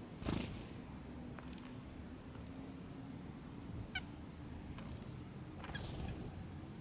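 Wild birds at backyard feeders: two short nasal calls, one about four seconds in and one near the end, with brief thin high notes between them. A sudden thump comes just after the start, over a faint low steady hum.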